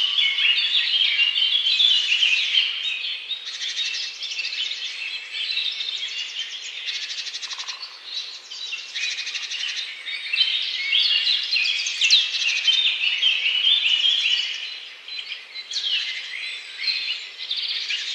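A chorus of several birds singing and chirping at once: many short high notes and fast trills overlapping, briefly thinning out about fifteen seconds in.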